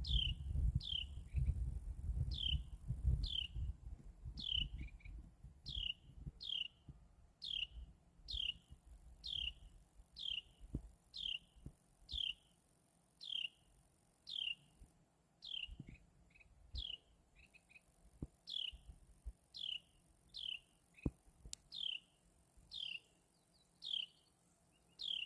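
Carolina wren chirping: a long, steady run of sharp, high notes, each sliding downward, repeated about one and a half times a second. A low rumble on the microphone fills the first few seconds.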